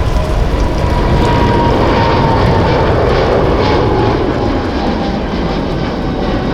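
Airliner's engines running loud as it passes the airport, a steady roar with a high whine that drops slightly in pitch as it goes by.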